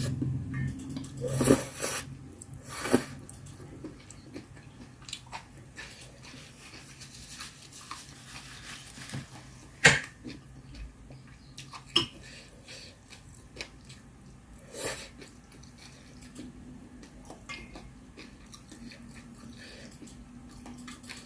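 A person chewing mala with vegetables, broken by scattered sharp clicks, the loudest about ten seconds in.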